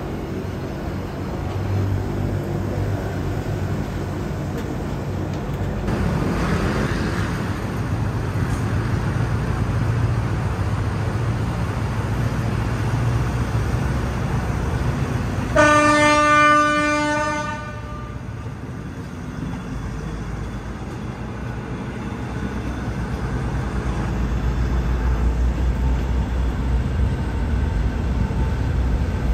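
Diesel train running with a steady low drone of engine and rails. Just past halfway a train horn sounds one blast of about two seconds.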